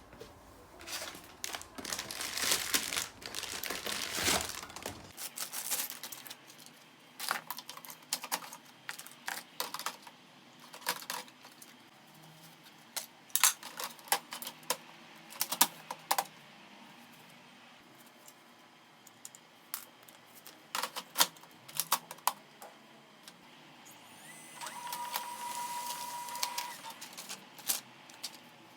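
Irregular light clicks and taps of small objects being handled, with a short steady tone sounding for about two seconds near the end.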